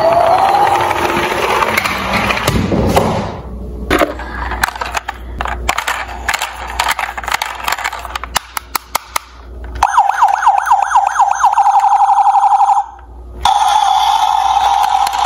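Emergency siren sounds: a wailing siren fades out at the start, then a fast rapid warbling siren runs for about three seconds, breaks off, and gives way to a steady siren tone near the end. In between, a run of sharp clicks and clatters from small die-cast toy cars rolling and knocking together on a slope.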